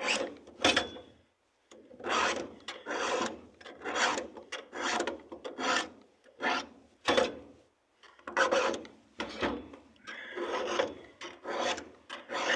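Hand file rasping across chainsaw chain cutter teeth in short, even strokes, about two a second, with two brief breaks.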